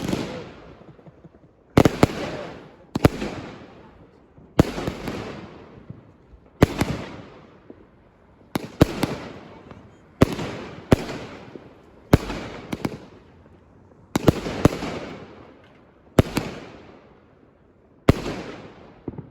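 Fireworks going off in a steady display: a sharp bang about every one to two seconds, some in quick pairs, each followed by a fading crackle.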